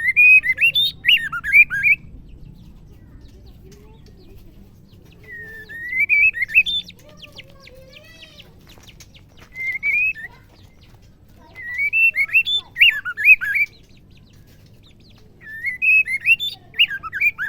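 Female white-rumped shama calling in short phrases, each a rising whistle running into a quick jumble of up-and-down notes, repeated five times about every four seconds.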